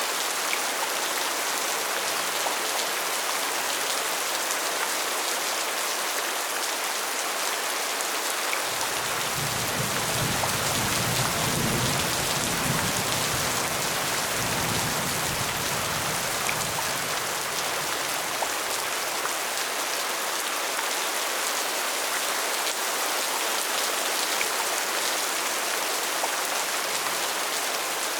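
Steady rain falling in an even hiss of drops. A low rumble rises under it about a third of the way in and fades out about ten seconds later.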